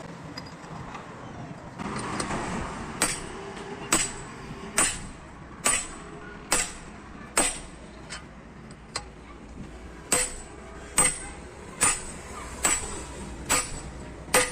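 Hammer blows on metal: a steady series of about a dozen strikes, beginning about three seconds in and coming just over one a second, each with a short metallic ring.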